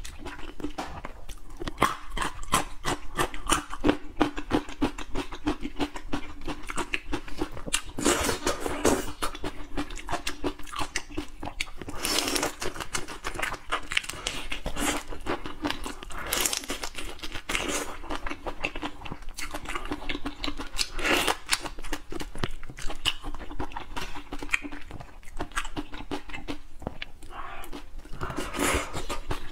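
Close-miked eating of whole marinated shrimp: a steady run of small wet clicks, bites and shell crunches as the shrimp are chewed and sucked, with a few louder moments spread through.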